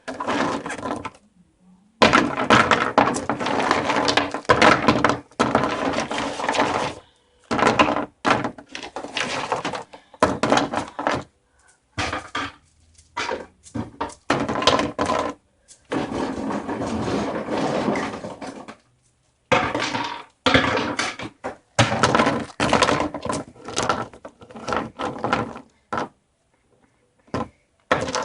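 Many small hard objects falling and clattering onto one another in repeated bursts of one to several seconds, with short silent gaps between them.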